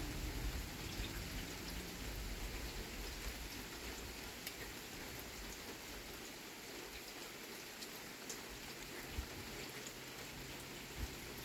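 Steady rain falling, with scattered single drops hitting close by; a low rumble of thunder dies away over the first few seconds.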